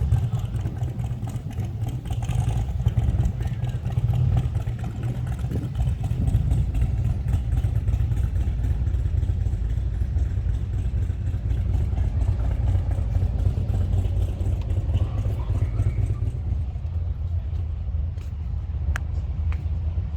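Motorcycle engine running steadily while the bike is ridden, a low, even sound.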